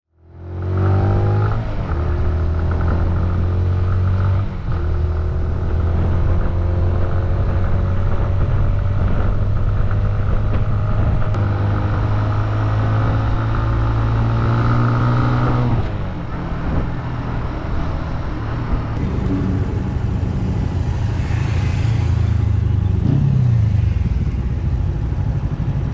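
Suzuki GN125's single-cylinder four-stroke engine running under way, rising in pitch as it accelerates, with a gear change about four seconds in. It eases off about sixteen seconds in and runs on at lower revs.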